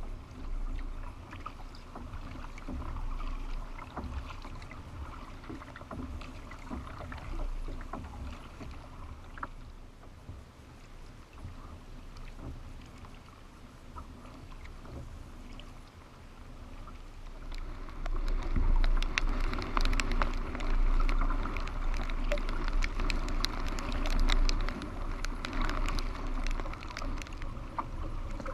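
Kayak paddling: paddle strokes splashing and water moving along the hull, with wind rumbling on the microphone. The splashing gets louder and busier about two-thirds of the way through.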